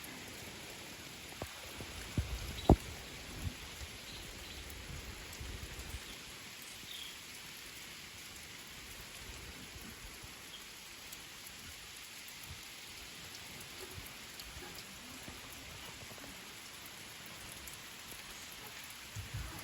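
Heavy rain falling steadily, with a few dull low thumps about two to three seconds in.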